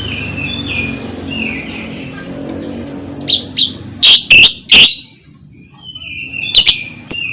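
Lovebird calling: a few short falling whistled notes, then loud, shrill shrieks about three to five seconds in, and more near the end.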